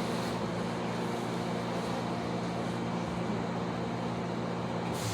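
Electric commuter train running at speed, heard from inside the passenger car: a steady rolling and motor noise with a low hum.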